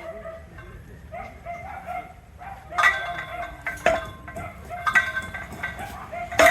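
Sharp metallic blows that ring, about one a second starting about three seconds in, the last the loudest: a steel pipe being driven by hammering.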